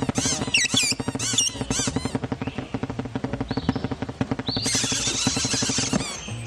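Cartoon birds chattering in rapid squeaky chirps for the first couple of seconds, then a harsher burst of squawking about two-thirds of the way in.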